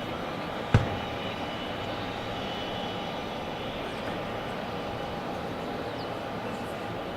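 Jet aircraft engines running steadily, a continuous hum with a faint high whine. A single sharp thump about a second in is the loudest sound.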